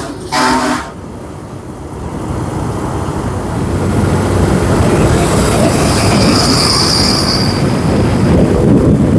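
Road traffic noise heard from a moving motorbike: a short vehicle horn toot about half a second in, then a dense rumble of engines and rushing air that builds about two seconds in and holds steady.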